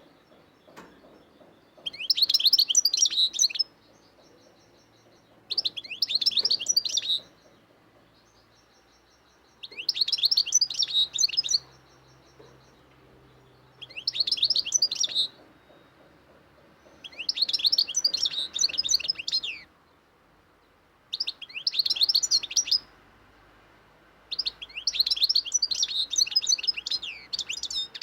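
A songbird singing in short phrases of rapid chirps and trills, seven phrases about four seconds apart, the last running on at the end.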